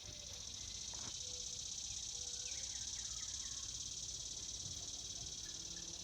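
Cicadas buzzing in a steady, high-pitched chorus that swells and then fades, with a few faint bird chirps in the middle.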